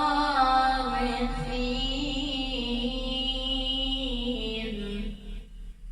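A man's voice in melodic Quran recitation (tajwid), holding one long, ornamented drawn-out phrase on the words "wa naj'alahum al-warithin". The pitch falls toward the end and the voice stops about five seconds in.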